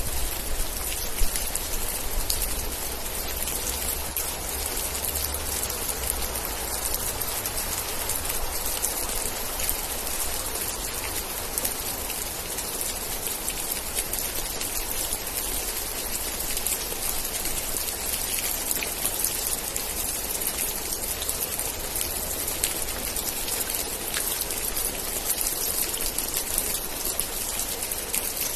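Steady rain, a dense even hiss with many separate drops ticking through it. A low rumble underneath eases off about six seconds in.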